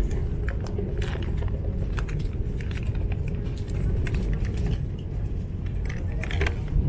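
Steady low rumble of a Vande Bharat Express chair car running along the track. Over it come scattered light clicks and crinkles as a tea premix sachet, stirrer and cup of hot water are handled.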